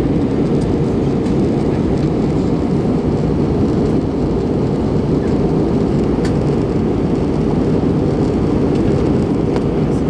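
Airliner cabin noise in flight: a steady roar of jet engines and rushing air, heard from inside the cabin, with a few faint ticks.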